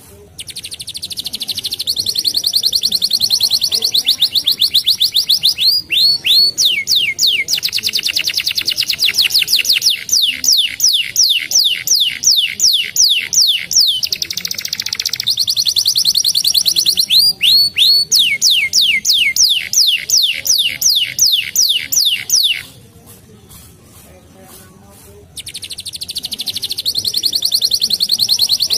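Domestic canary singing long, rapid trills of repeated sweeping notes, several per second, changing from one repeated note type to another. The song breaks off for about three seconds late on, then starts again.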